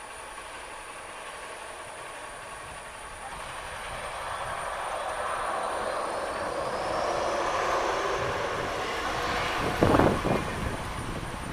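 Jet airliner passing: engine noise builds over several seconds with a high whine rising in pitch, then a brief loud thump about ten seconds in.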